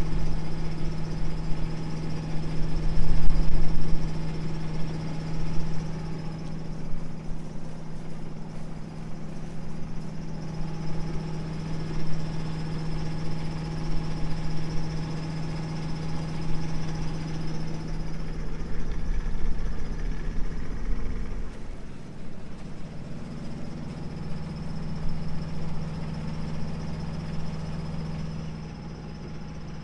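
A sailboat's inboard engine runs steadily at a constant pitch. Wind buffets the microphone about three seconds in and again around twenty seconds.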